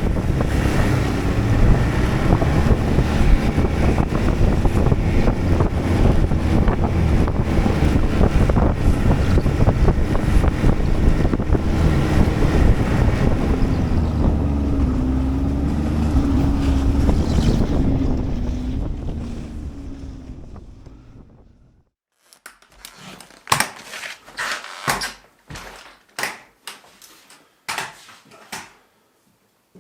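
Snowmobile engine running steadily with a wavering drone, then fading away over a few seconds. After a break come a string of sharp knocks and clatters.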